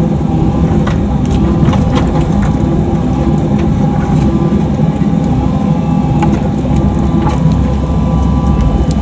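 Mini excavator working: a steady engine drone with a whine from the hydraulics, and scattered clicks and clanks from the bucket and linkage digging in dirt.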